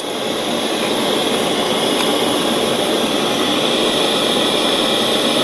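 A steady, even rushing hiss that does not change, with a brighter hissing edge.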